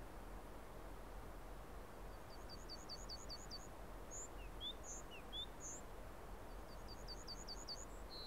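A small songbird calling: two quick runs of about eight high, clipped notes, a few seconds apart, with a few single chirps between them, over a faint steady hiss of outdoor ambience.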